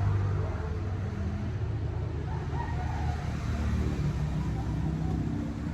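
Motorcycle engine running steadily, its pitch shifting a little a few times as the revs change.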